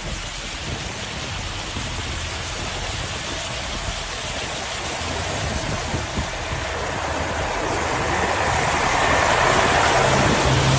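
Rushing floodwater of a swollen river, a steady noisy roar that slowly grows louder, with a steady low hum joining near the end.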